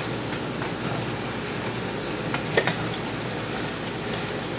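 Eggs, sausage, potatoes and peppers sizzling in a frying pan, a steady crackle with a few light clicks of the spatula against the pan.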